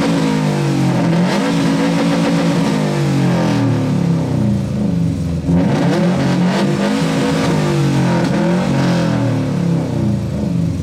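Subaru boxer engine revved hard and held through its exhaust, pitch rising and falling several times. A thick, deep exhaust note, felt in the chest, that reads about 110.4 dB on the decibel meter.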